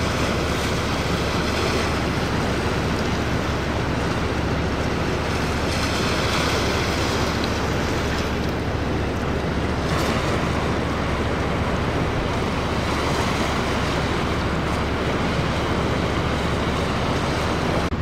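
Strong gale wind buffeting the microphone with a steady low rumble, over the rush of rough Lake Erie waves that swell and break several times.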